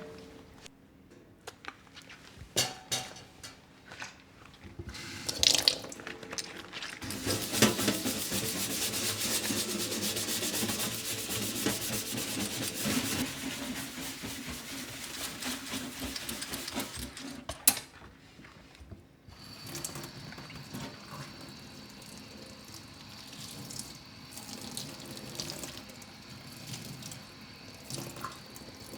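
Kitchen tap running into the sink for about ten seconds, then shut off with a sharp click. A few light knocks come before it, and quieter knocks follow.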